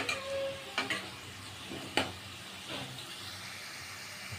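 Small whole potatoes frying in hot oil in a kadhai: a steady sizzle, with a steel ladle knocking against the pan a few times as they are stirred.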